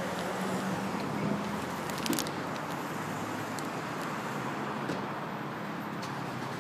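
Car engine idling steadily with a low, even drone, and a few light clicks about two seconds in.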